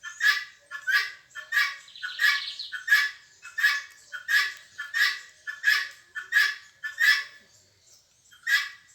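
A bird giving a harsh, squawking call over and over in a steady rhythm, about two calls a second, pausing briefly about a second before the end.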